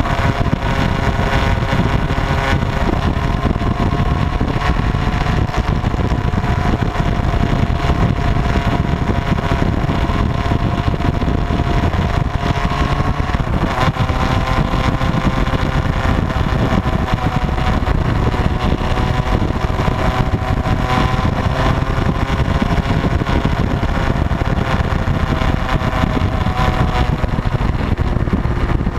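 Motorcycle engine running steadily on the move, its pitch drifting slightly up and down, over a constant low noise.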